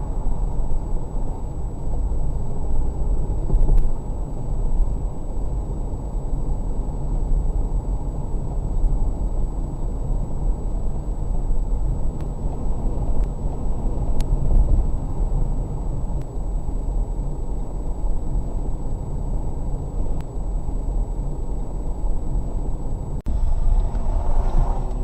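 Steady road and engine rumble of a car driving, picked up by its dash cam, with one brief dropout near the end.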